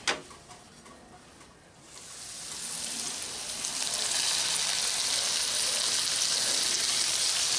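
Potatoes, sausage and bacon sizzling in a cast iron skillet: quiet at first, the sizzle swells about two seconds in as the lid comes off in a cloud of steam, then fries steadily and loudly.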